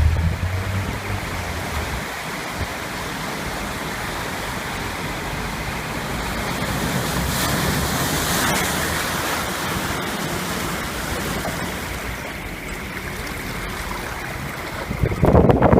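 Storm surf: a steady rush of breaking waves and churning seawater that swells about halfway through, with a louder burst of rushing noise near the end.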